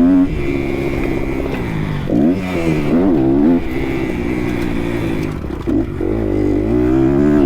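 Kawasaki KX 250 motocross bike engine heard from the rider's helmet camera, its revs rising and falling repeatedly as the throttle is worked around the track. Near the end the engine briefly drops off, then revs back up.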